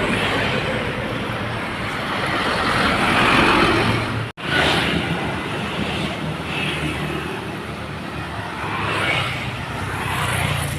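Loaded dump trucks passing with diesel engines running and tyre noise on a wet road, swelling and fading as they go by. The sound cuts out abruptly for an instant about four seconds in.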